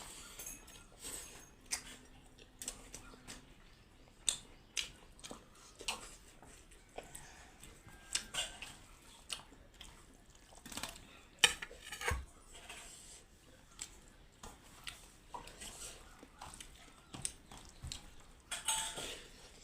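Irregular clinks and knocks of dishes and utensils against a plate while someone eats, one sharper knock about halfway through.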